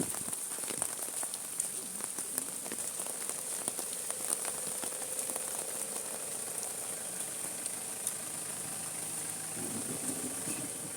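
Steady rain falling, a constant hiss with the patter of many individual drops.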